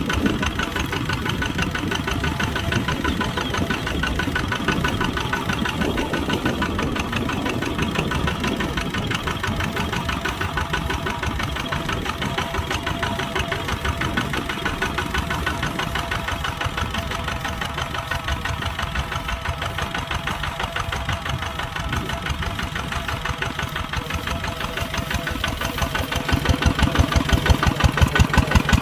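Kubota tractor's diesel engine running steadily while plowing, with a regular beat. About three seconds before the end it grows louder and the beat becomes stronger and more clearly pulsing.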